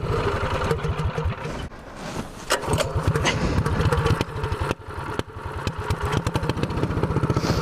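Predator 212cc single-cylinder mini bike engine running with a fast, even firing beat, its level dipping briefly about two seconds in and again near five seconds.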